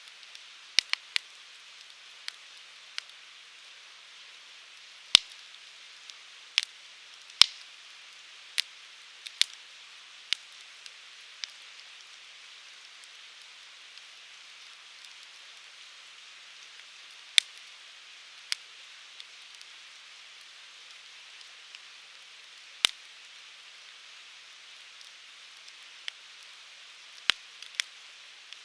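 Firewood burning in a fire pit: a soft, steady hiss of flames with sharp, irregular pops and snaps, sometimes several close together and sometimes several seconds apart.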